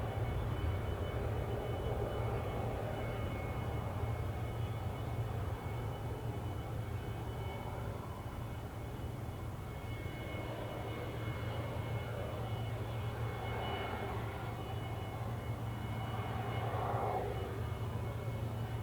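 Airbus A380-861's four Engine Alliance GP7270 turbofans at takeoff power as the jet departs, a steady low jet rumble.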